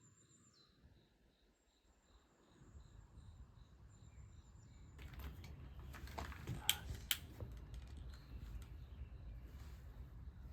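Wood fire crackling: scattered sharp pops and clicks over a low rumble, starting about halfway through, with two louder snaps a little later.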